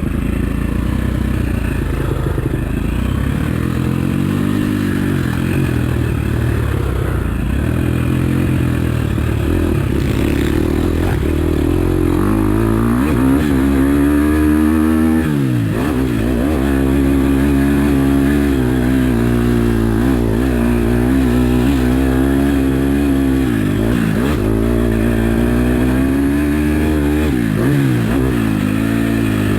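KTM 250 SX-F single-cylinder four-stroke motocross engine running under hard throttle around the track. Its pitch climbs and falls as the rider opens and closes the throttle, with sharp drops about halfway through and twice near the end.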